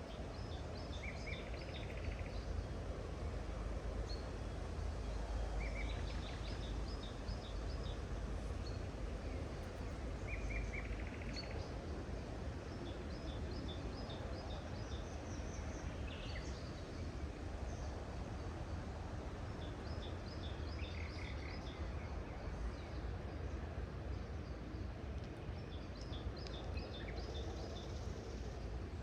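Small songbirds calling in short phrases of quick, high chirps that come again every few seconds, over a steady low rumble.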